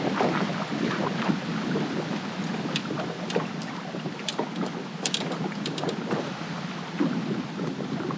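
Heavy wind on the microphone, a steady rumbling rush made muffled and uneven by noise-reduction processing, with scattered short clicks and ticks in the middle.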